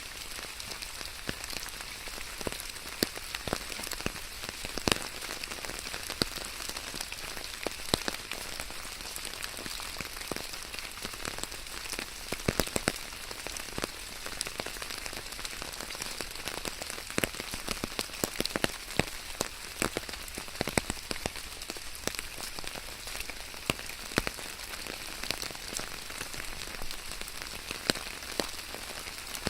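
Steady rain falling: an even hiss scattered with many irregular, sharp drop ticks.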